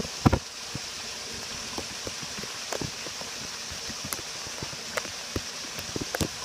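Storm runoff water running steadily into a sewer, with scattered drips and splashes.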